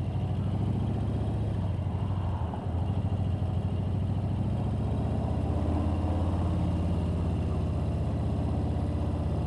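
Motorcycle engine running steadily while being ridden, heard from on the bike, with a brief dip about two and a half seconds in.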